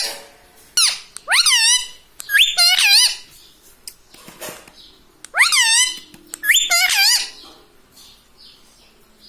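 Pet ring-necked parakeet giving a run of shrill calls, each one rising and then falling in pitch. They come in two groups a couple of seconds apart.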